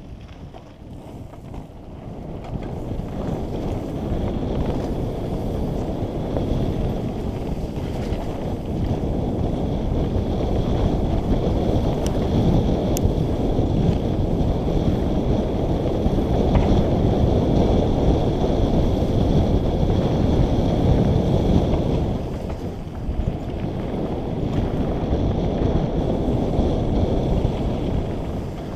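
Wind rushing over the microphone and mountain bike tyres rumbling over a dirt trail during a fast descent. The noise builds over the first few seconds and dips briefly about 22 seconds in.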